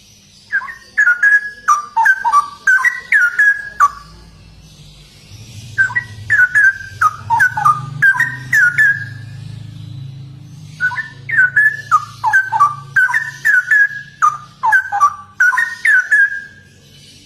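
Straw-headed bulbul (cucak rowo) singing loudly in rapid, fluttering whistled phrases. It sings three long bursts with short pauses between them. A faint low hum runs underneath.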